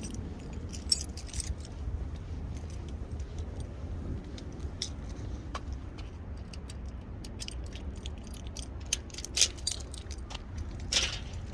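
Keys jingling in many small, irregular clinks, with a few louder knocks near the end, over a steady low rumble.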